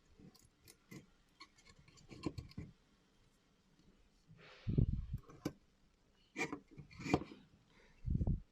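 Plastic parts of a just-opened Xiaomi Mijia automatic soap dispenser being handled: scattered clicks, light knocks and rubbing, with a dull thump about five seconds in and another near the end.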